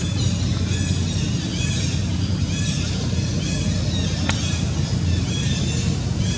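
Short, high-pitched chirping animal calls repeating about twice a second over a steady low rumble, with a single sharp click about four seconds in.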